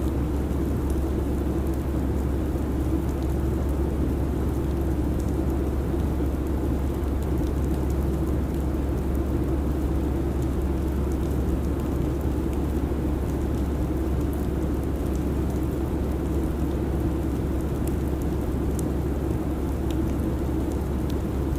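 Steady jet airliner cabin noise: an even, unchanging low rumble of engine and airflow.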